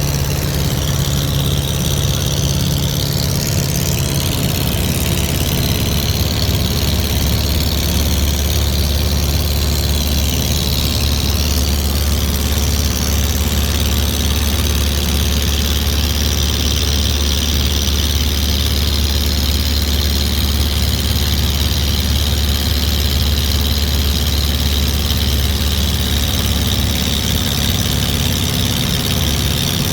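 A steady, low engine drone that does not change for the whole stretch, with a fainter higher whine wavering in pitch during the first dozen seconds.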